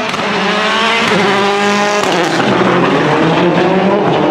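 Rally car engine pulling hard, its pitch rising steadily, then breaking off with a gearchange about halfway through and carrying on rougher.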